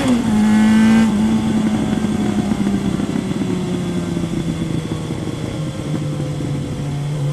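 Kawasaki ZRX1100's inline-four through a Yoshimura exhaust. The revs drop sharply as the throttle shuts right at the start, then fall slowly as the bike slows off the throttle, with a further step down in pitch near the end and steady wind noise throughout.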